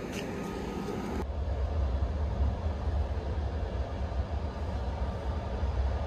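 A train running, a steady low rumble. About a second in the sound changes abruptly: a brighter hiss drops away and a heavy low rumble takes over.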